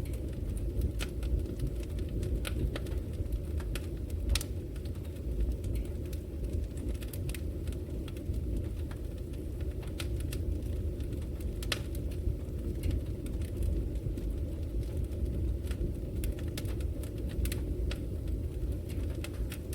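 Wood fire burning in a fireplace: a steady low rumble of the flames with irregular sharp crackles and pops throughout, a few of them louder.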